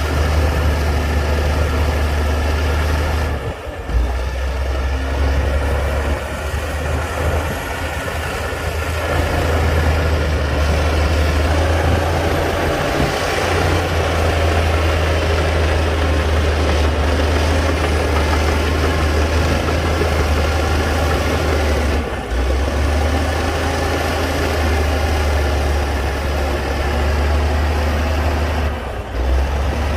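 Heavy diesel engine of a Komatsu D60-P bulldozer running steadily with a deep, even drone, dipping briefly three times.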